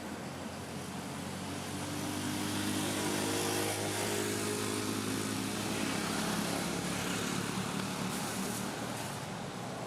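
A motor vehicle's engine passing by, growing louder over the first few seconds, then fading away.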